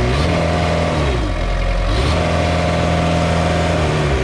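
Kubota four-cylinder diesel engine of a Toro Reelmaster 5410 mower revving up from idle, holding, and dropping back, twice.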